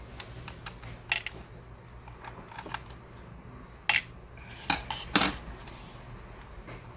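Scattered clicks and light clatter of small hard parts and tools being handled while a laptop is taken apart, with a few sharper knocks about four and five seconds in.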